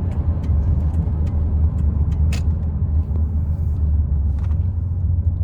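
Steady low drone of an old pickup truck's engine and road noise heard from inside the cab while driving, with scattered light clicks and rattles and one louder click about two and a half seconds in.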